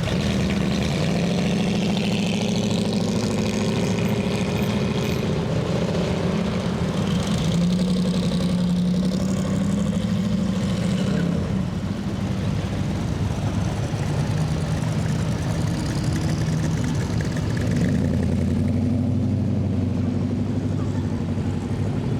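Hot rod and muscle car engines rumbling at low speed. The pitch shifts a few times as one car gives way to the next.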